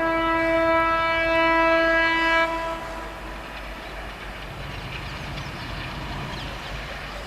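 Indian Railways locomotive horn sounding one long steady blast that cuts off after about two and a half seconds. A passing train's low rumble follows.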